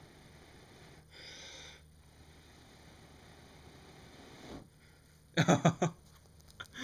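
A person blowing into a smouldering tinder bundle to bring an ember to flame: one long airy blow about a second in, then quieter breathing. A few short, loud, breathy voice sounds come about five seconds in.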